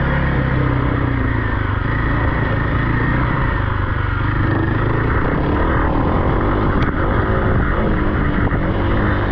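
Off-road vehicle engine running steadily, its pitch shifting a little.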